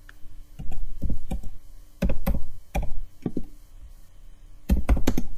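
Computer keyboard typing in the terminal: short runs of keystrokes with pauses between them, the loudest run near the end.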